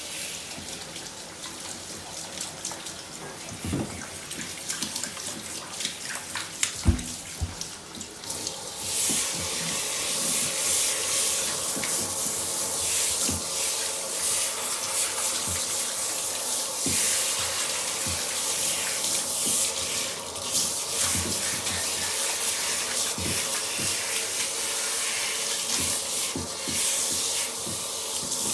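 Running water: a quieter stretch with scattered knocks, then from about eight seconds in a steady, strong flow of water.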